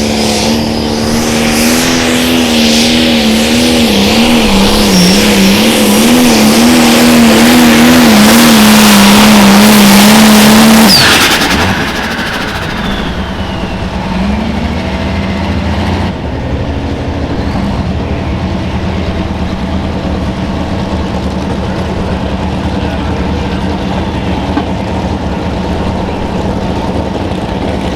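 Turbocharged diesel pulling tractor at full power under load down the track, its engine note wavering up and down and growing louder. About eleven seconds in, the throttle comes off abruptly. A turbo whistle winds down in pitch over the next few seconds while the engine settles to a steady low run.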